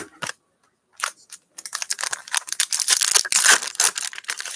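Foil wrapper of a Panini football trading-card pack being torn open and crinkled. A few light clicks come first, then dense crackling from about a second and a half in.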